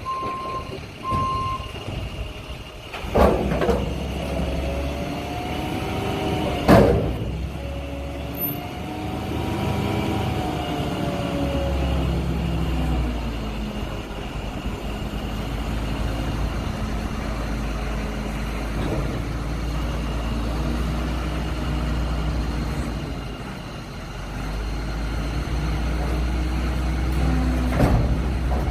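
Dumpster truck's diesel engine running, its pitch rising and falling as it revs, with a backup alarm beeping a few times at the start. A few short sharp bursts of noise break in, two early on and one near the end.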